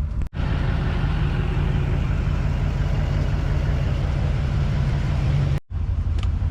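A vehicle engine running steadily, with a low hum under a noisy wash. The sound drops out briefly twice, once just after the start and once near the end.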